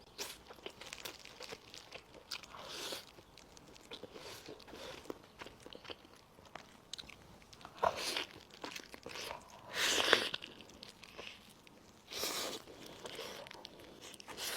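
Close-miked eating: a person biting and chewing braised chicken, with wet mouth clicks and a few louder bites spread through.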